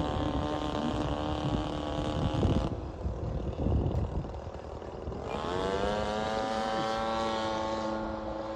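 Radio-controlled Shock Cub model plane's motor and propeller running in flight. It is throttled back about two and a half seconds in, then opened up again about five seconds in with a rising pitch that settles to a steady run.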